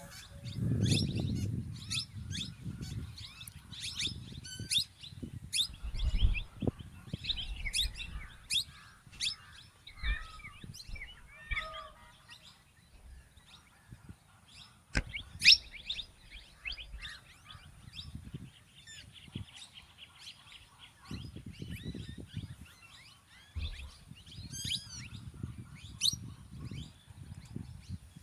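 Plum-headed parakeets calling: many short, sharp, high-pitched chirps and squeaks, some in quick runs, with bursts of low rumble underneath.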